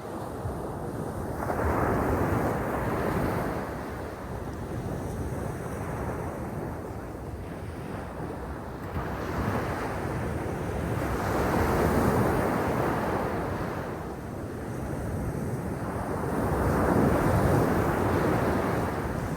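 Sea waves breaking and washing on the shore, the surf swelling and ebbing every few seconds, with wind on the microphone.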